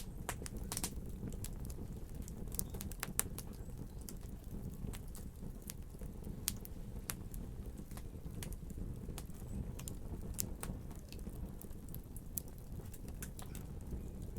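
Fire in a fireplace crackling: irregular sharp pops and snaps, several close together about three seconds in, over a steady low rumble of the flames.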